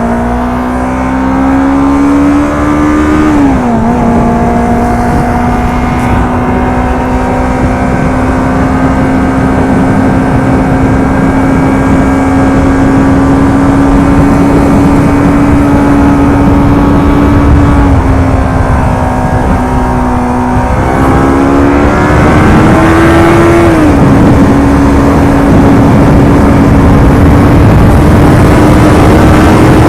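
Yamaha YZF-R25's 250 cc parallel-twin engine through its stock exhaust while riding. It climbs in pitch and drops at an upshift a few seconds in, holds a steady cruise, eases off, then climbs to another upshift and settles again. A rush of road and wind noise lies underneath.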